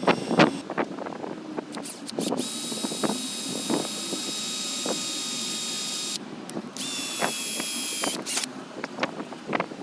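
Angle-grinder motor driving a home-made belt grinder, running with a steady high whine for about four seconds, then for a shorter second run. Clicks and knocks of handling come before, between and after the runs.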